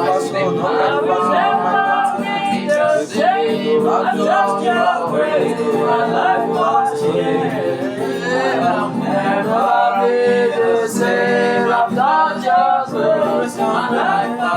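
Spontaneous gospel worship singing: a voice improvises flowing melodic lines over steady, sustained keyboard chords.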